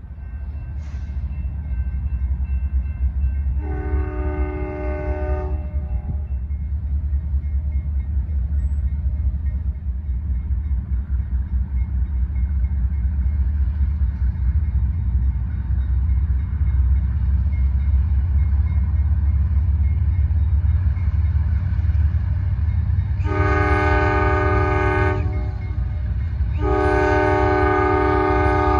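CSX freight train's diesel locomotive approaching with a steady low rumble that grows louder over the first few seconds. Its multi-chime air horn sounds one long blast about four seconds in, then two more long blasts near the end.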